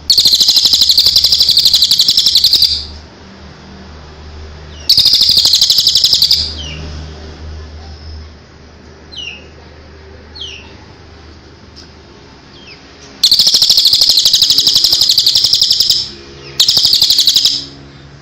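A small songbird singing loud, rapid, buzzing trills in four bursts of one to three seconds each, with a few faint short chirps in the gaps.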